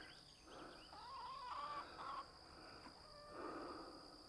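Chickens clucking and warbling faintly, in short wavering calls about a second in and again near the end.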